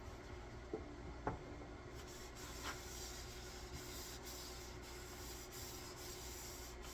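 Cloth rag rubbing a clear finish into a wooden axe handle, a faint steady rubbing with a couple of light knocks about a second in.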